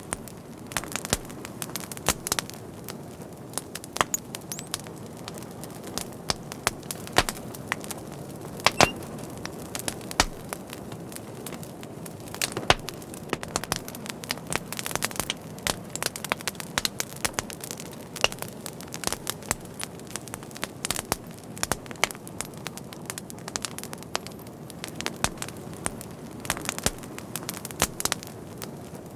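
Fire crackling: frequent sharp, irregular pops and snaps over a steady low hiss.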